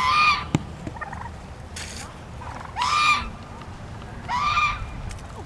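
Farm fowl calling: three loud calls of about half a second each, one at the start, one about three seconds in and one about four and a half seconds in.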